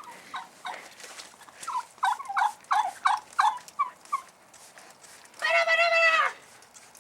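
Poultry calling: a run of about eight short clucking notes, then one long call lasting about a second.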